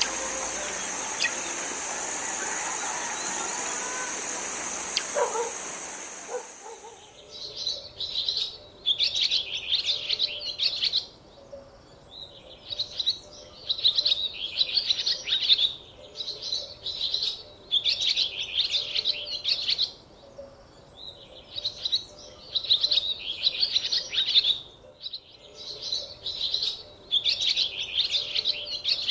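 A steady rushing noise that stops abruptly about seven seconds in, then a bird singing in repeated bursts of rapid high chirps, each about a second long with short pauses between.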